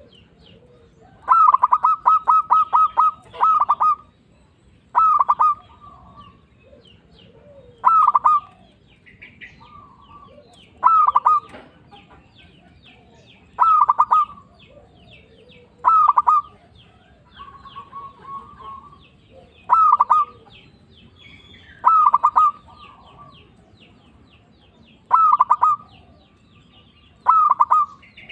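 Zebra dove (perkutut) singing its rhythmic, burry cooing call over and over, one phrase about every two to three seconds, the first longer and made of rapid pulses. Faint chirps of smaller birds sound between the phrases.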